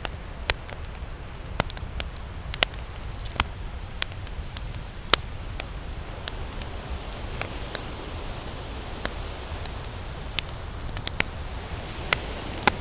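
Campfire crackling: irregular sharp pops and snaps of burning wood, a few seconds apart with a quick cluster near the end, over a steady low rush.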